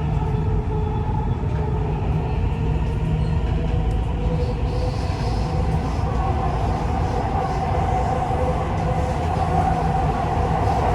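Dubai Metro Red Line train running, heard from inside the carriage: a steady rumble of wheels on rail, with a whine that grows stronger about halfway through.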